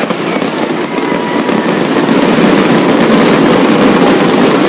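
Fireworks going off in quick succession, a dense, continuous run of pops and bangs that grows louder over the first two seconds or so.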